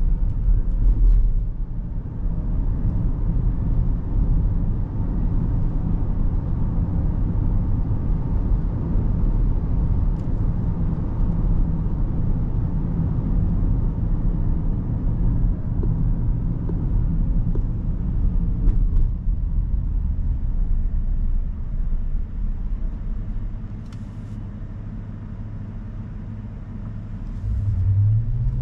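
Road and tyre rumble inside the cabin of a 2023 Rivian R1S electric SUV while driving, a steady low noise with no engine sound. Near the end it eases off for a few seconds, then picks up again with a short rising hum.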